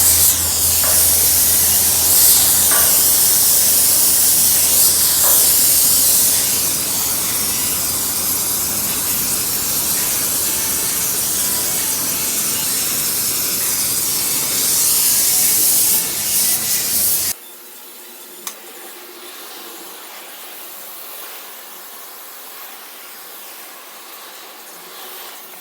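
Welding on sheet metal: a steady, loud hiss with a low hum underneath, which stops suddenly about seventeen seconds in, leaving only a faint quieter noise.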